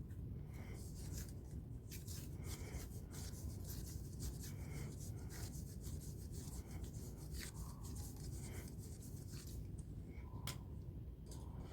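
Repeated, irregular rubbing strokes, like something being rubbed or scraped by hand, over a low steady hum.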